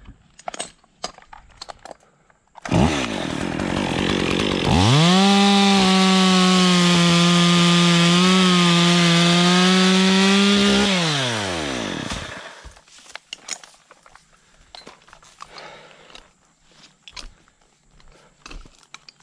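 Stihl MS 201 top-handle two-stroke chainsaw revving up to full throttle and cutting through a branch for about six seconds, then the revs fall away as the trigger is released.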